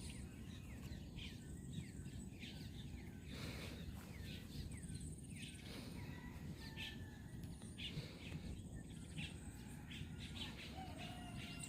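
Faint birds chirping: many short, downward-sweeping calls repeating over a low steady background hum.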